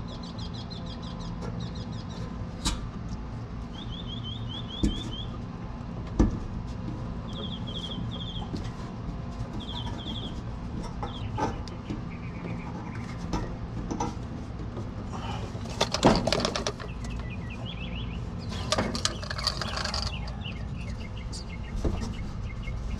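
Small birds chirping in short, rapid trills several times over a steady low hum. Scattered sharp clicks and knocks come from hand work on parts, most clustered about two-thirds of the way through.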